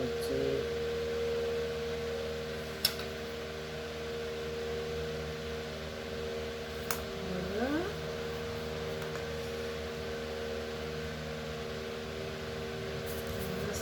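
Electric fan running with a steady hum and whoosh, with two sharp clicks, one about three seconds in and one about seven seconds in.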